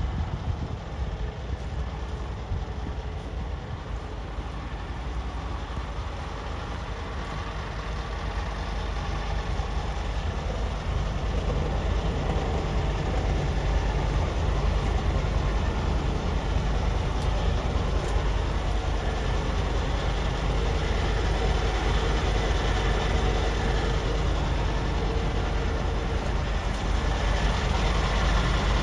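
Scania P360 refrigerated box truck's diesel running steadily, a low rumble that grows louder about ten seconds in and then holds.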